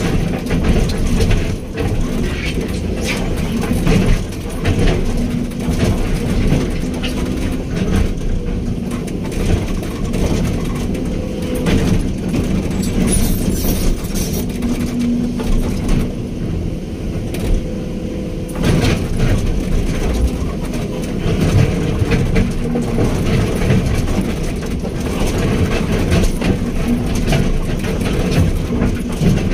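Excavator diesel engine running steadily, with repeated knocks and clanks from the machine at work.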